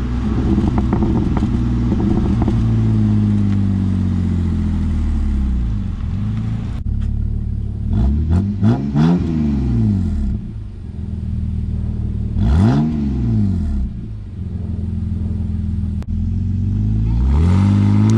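BMW 528i engine revving through an electric exhaust cutout. It holds high revs at first and falls back to idle. It then blips up and down twice in quick succession about eight seconds in, again near thirteen seconds, and climbs once more near the end.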